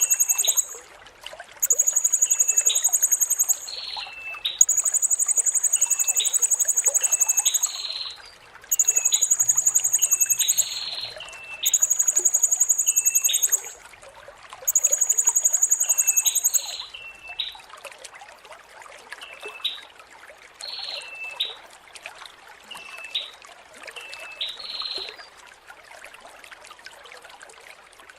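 Blue-crowned hanging parrot (serindit) calling: six long, very high-pitched trilled notes of about two seconds each with short gaps between them, stopping about two-thirds of the way in. Shorter sharp chip notes continue to near the end, over a steady trickle of running water.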